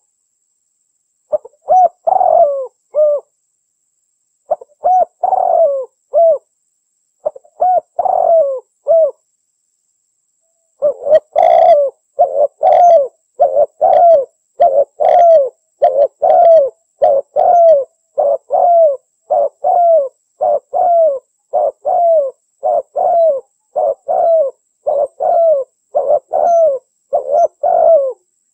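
Spotted dove (derkuku) cooing: a few short two- to three-note phrases with pauses between, then from about a third of the way in a fast, unbroken run of coos, roughly one and a half a second. The uploader presents it as a female's call, used as a lure for males.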